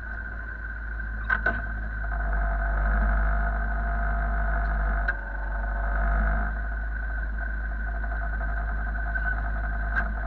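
An engine running steadily, swelling a little for a few seconds before settling back, with a couple of brief clicks.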